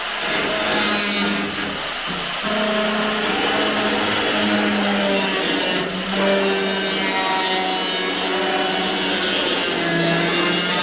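Handheld electric grinder abrading the steel of the car's rusty suspension top: a steady motor whine with a rasping hiss from the disc on the metal. Its pitch sags a little under load near the end.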